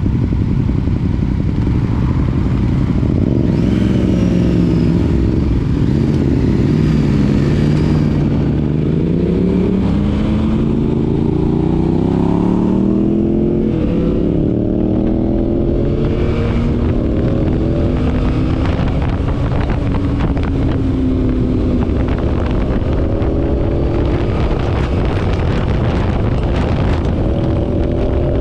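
Motorcycle engine running under way, its pitch repeatedly rising and falling as the throttle opens and closes and the gears change.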